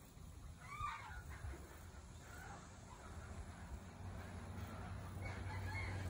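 Bird calls: a few short calls that bend in pitch, about a second in and again near the end, over a low steady hum that grows louder in the second half.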